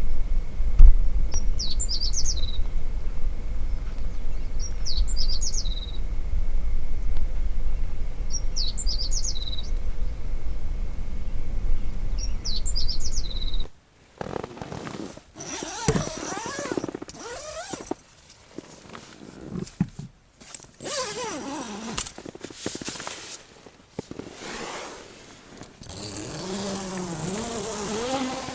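Wind buffeting the microphone as a heavy low rumble, while a bird sings a short repeated phrase four times, about every three and a half seconds. About halfway through this cuts off suddenly to a quieter, broken stretch of clicks and mixed gliding sounds.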